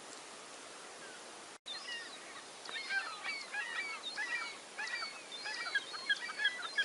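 Gulls calling from a nesting island, many short, overlapping cries that start about a second and a half in and carry on, over faint background hiss.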